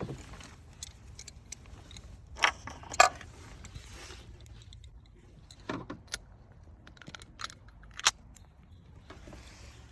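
Scattered metallic clinks and knocks of a socket wrench, extension and spark plug socket as a new spark plug is fitted down into its well and started on its threads, with louder knocks about two and a half, three and eight seconds in.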